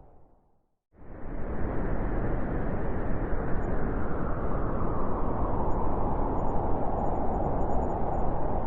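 Wind blowing as a steady rushing noise, with a short gap of silence in the first second before it cuts back in abruptly.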